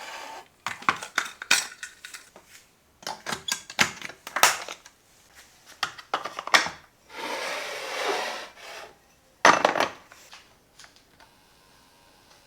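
Clatter of a coffee machine and cup being handled: a run of sharp clicks and knocks. A rushing noise lasts about a second and a half about seven seconds in, and one loud knock comes shortly after.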